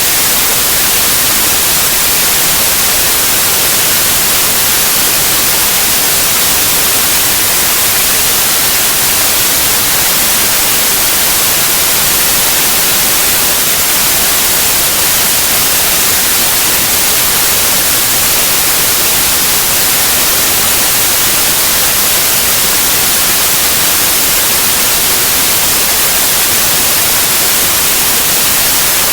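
Steady, loud white noise: an even hiss with no changes or events.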